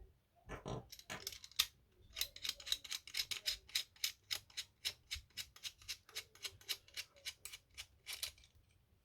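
GoPro Large Tube Mount clamp being wound open to its widest setting, its plastic mechanism clicking at an even rate of about five clicks a second for several seconds, after a few single clicks.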